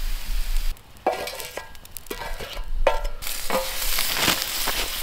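Food frying on a steel plancha over a campfire. The sizzle breaks off briefly just under a second in, then a few short sharp sounds come before a dense crackling sizzle fills in over the second half.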